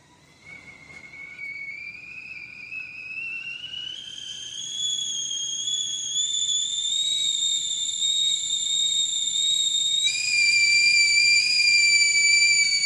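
BELANKO 3-litre stainless steel stovetop kettle whistling as it comes to the boil. The whistle starts faint about half a second in, then rises steadily in pitch and loudness. About ten seconds in it turns into a louder two-tone whistle.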